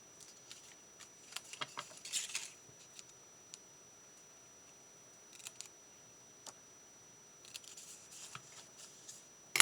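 Scissors cutting paper in a few short runs of snips, with pauses and single light clicks between.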